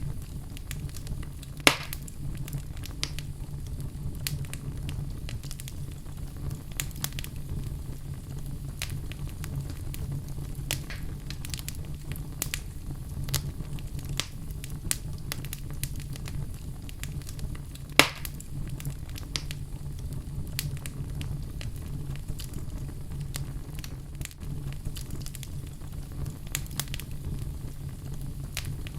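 Wood fire burning in a fireplace: a steady low rumble of flames with scattered crackles, and two louder pops, one near the start and one about halfway through.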